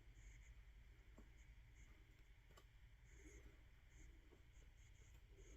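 Near silence with faint scratching and a few soft clicks: a razor blade cutting and scraping at carpet fibres jammed around a bird's beak.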